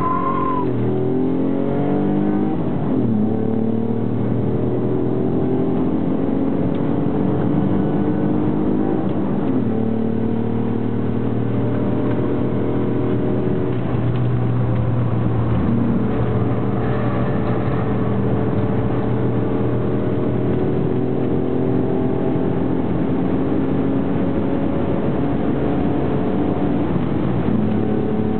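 Ford Mondeo ST24's 2.5-litre V6, with short-tube headers and a full 2.5-inch exhaust, heard from inside the cabin under hard track driving. The engine note climbs steadily and drops sharply a few times, about three, nine and sixteen seconds in and again near the end, over steady tyre and road noise.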